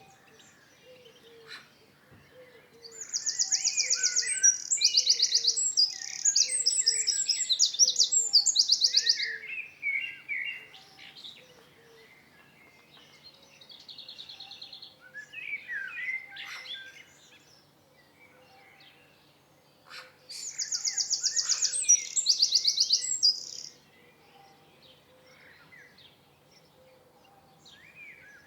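Wild songbirds singing, with two long bursts of rapid, high, buzzy trills, one in the first third and one about two thirds of the way through, and scattered shorter chirps and whistles between them. A faint low note repeats about twice a second through the first half.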